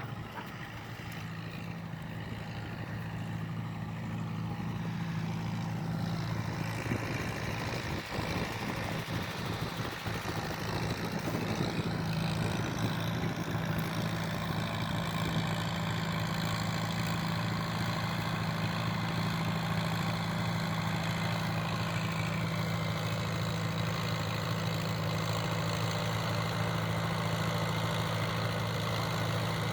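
1950 Farmall tractor engine running steadily, growing louder over the first ten or so seconds, then holding an even note.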